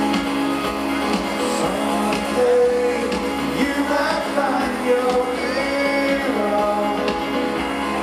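Live rock music from a band: guitars playing with a voice singing over them.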